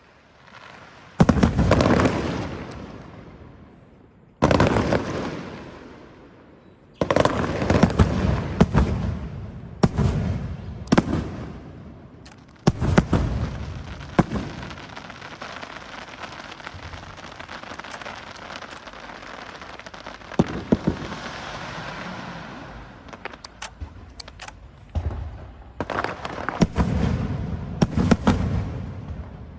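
Fireworks: a series of loud sudden bursts, each fading over a second or two, then a long stretch of dense crackling in the middle, and many quick sharp pops near the end.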